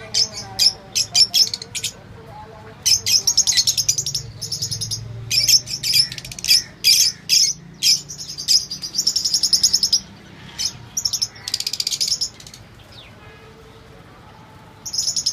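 Small parrots chirping and chattering in rapid trains of high-pitched calls, with a short lull near the end before one more burst.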